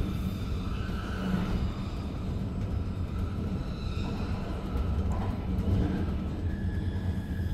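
Cabin noise inside a DPZ double-deck S-Bahn train hauled by an Re 450 locomotive: a steady low rumble from the running train, with faint whining tones above it.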